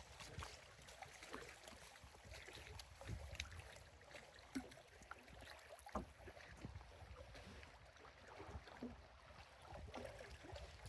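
Canoe paddling, faint: soft splashes and drips of a paddle in lake water, with scattered small clicks.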